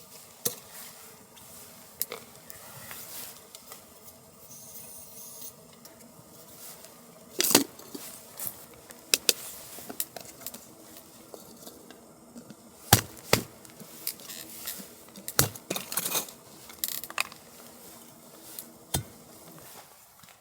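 Camp gear being handled: irregular clinks, knocks and scrapes, with a few sharper knocks about 7, 13, 15 and 19 seconds in.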